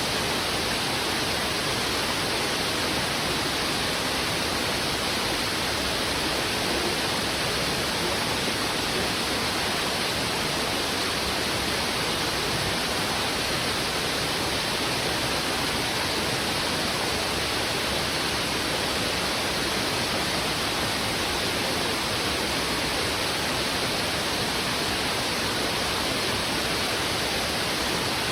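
A river's heavy current rushing over rocks: a steady, unchanging rush of water.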